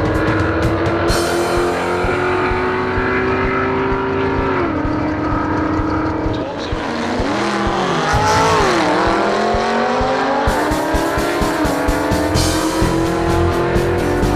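Drag-racing muscle car engines running hard at high revs, the pitch holding and stepping, then dipping and climbing again about halfway through, over rock background music with a steady beat.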